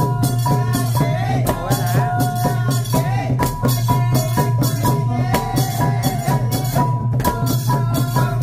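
Khmer chhay-yam festive music: fast, dense drum and cymbal strokes under a wavering melody line.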